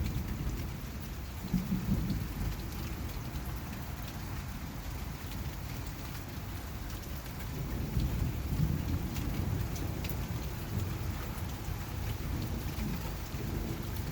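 Steady rain falling during a thunderstorm, with low rumbles of thunder swelling about a second and a half in and again about eight seconds in.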